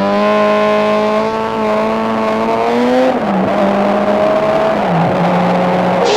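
Motorcycle engine running steadily under way, with brief dips in pitch about three seconds and again about five seconds in.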